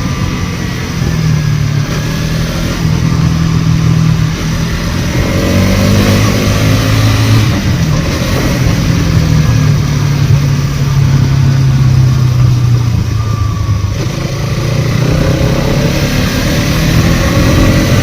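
Motorcycle engine running while riding, its pitch climbing, holding steady and dropping back several times with throttle and gear changes.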